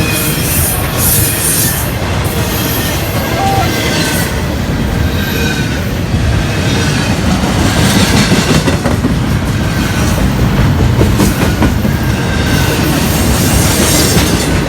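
A freight train's cars rolling past close by: a steady loud rumble of wheels on rail, with the clack of wheels over joints and faint high wheel squeals now and then.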